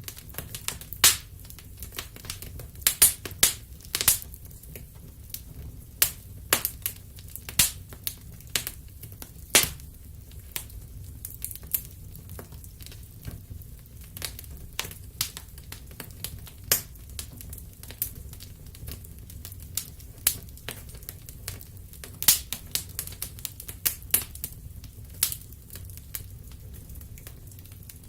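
Wood fire in a fireplace crackling: irregular sharp pops, some in quick clusters, over a low steady rumble of the flames.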